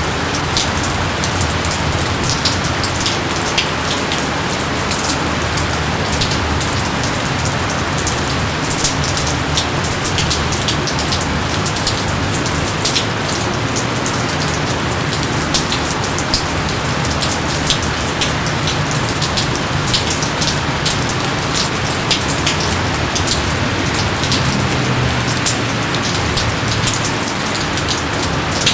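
Steady heavy rain, with a constant hiss of falling rain and many individual drops pattering sharply close by.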